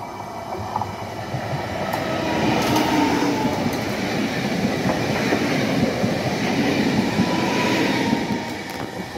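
Electric multiple-unit passenger train passing close by, its wheels rumbling and clattering on the rails with a faint steady whine. It builds over the first two or three seconds, stays loud as the cars go past, and eases off near the end.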